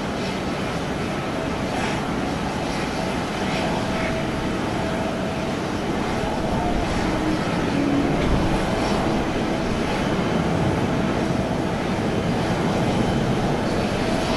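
Boeing 787 airliner jet noise on the apron: a steady rush with a faint steady whine. It grows a little louder about halfway through.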